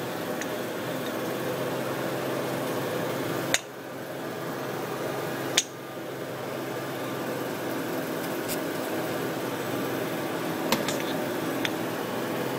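Car engine idling with an exhaust leak at the headers, a steady hum. Two sharp clicks come about three and a half and five and a half seconds in, each followed by a brief drop in level, and fainter clicks come near the end.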